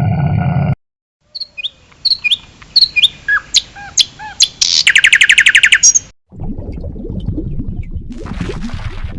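A bird calling: a series of sharp chirps and short down-slurred whistles, then a fast high trill about five seconds in, the loudest part. It opens with a brief low pitched call that cuts off suddenly, and after the trill a rough low noise takes over.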